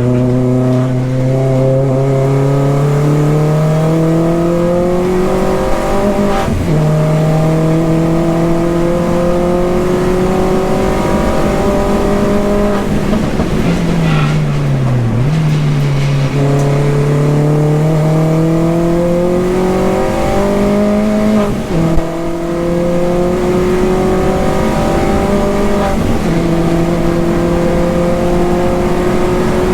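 Mini R55 Clubman race car engine driven hard on track: its note climbs steadily through each gear and drops sharply at every upshift. In the middle it falls away and dips under braking and downshifts, then climbs again. One sharp bang sounds about three-quarters of the way through.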